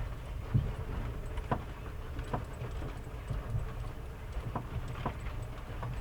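Steady low rumble inside a moving Volkswagen Kombi, with irregular light knocks and rattles, about one or two a second. This is the strange noise the occupants suspect comes from a tyre or a wheel bearing, sounding weaker than it did before.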